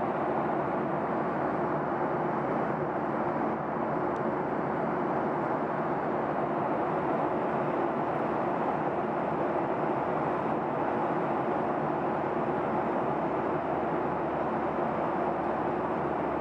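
Steady cabin noise inside a Boeing 737-800 airliner in flight: the even rush of engines and airflow, unchanging throughout.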